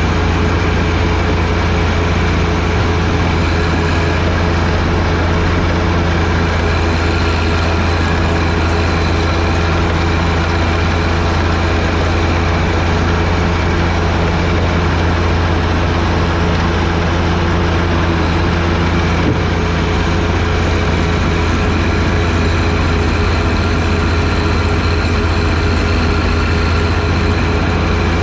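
John Deere 1025R tractor's three-cylinder diesel engine running steadily at constant speed while powering a 47-inch front snowblower.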